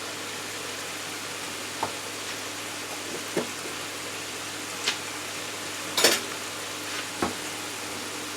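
Vegetables sizzling in oil in a frying pan, a steady hiss, with a few short sharp clicks or taps scattered through it.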